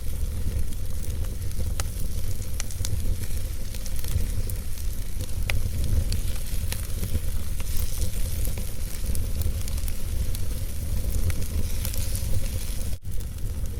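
Wood fire crackling in a fireplace: scattered sharp pops and snaps over a steady low rumble and hiss, with a brief dropout near the end.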